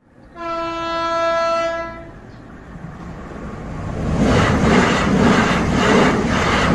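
Passenger train sounds its horn in one long blast, then passes close by with the noise building. Its wheels clatter over the rail joints about twice a second.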